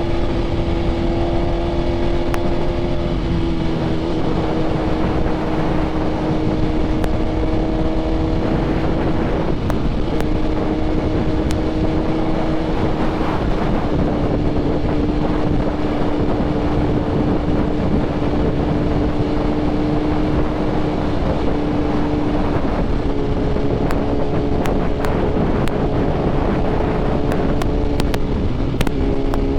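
BMW S1000RR sport bike's inline-four engine with an SC Projects exhaust, running at steady cruising revs, its note easing down in pitch in a few small steps. Heavy wind noise on the microphone runs under it.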